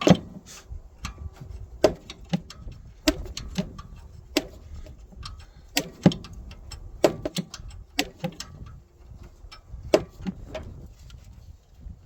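Hand wrench clinking against a bolt and the engine's metal as a tight bolt is worked loose a little at a time, with irregular sharp clinks, often in pairs, over low handling noise.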